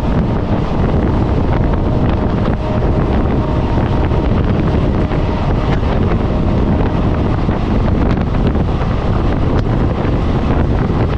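Passenger train running at speed, heard from inside the coach: a loud, steady rumble of wheels on rails with air buffeting the microphone. A faint steady tone sits under it for the first several seconds.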